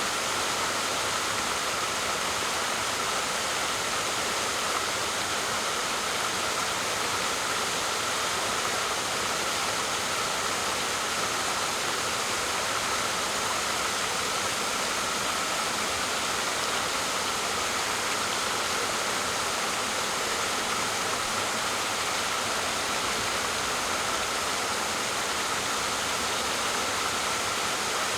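Waterfall: water falling and splashing in a steady, unbroken rush, mostly in the middle and upper range with little low rumble.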